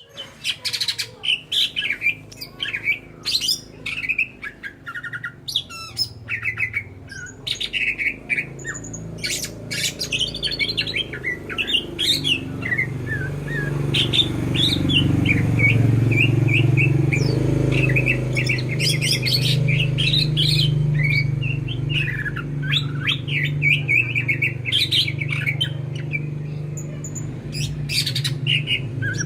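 A cucak ijo (green leafbird) singing nonstop: a rapid, varied run of sharp calls, chirps, trills and slurred whistles. A steady low hum grows underneath from about halfway in.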